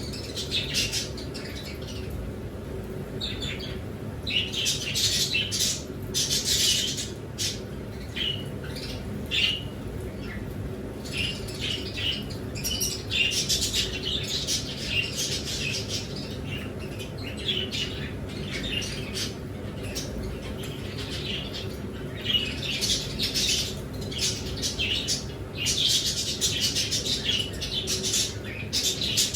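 A flock of small cage birds chirping and squawking in quick, overlapping short calls, over a steady low hum.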